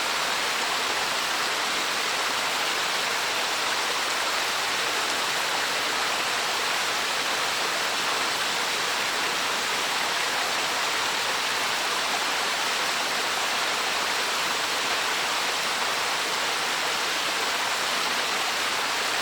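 Small mountain waterfall, a cascading stream over a series of little drops, making a steady, even rush of falling and splashing water.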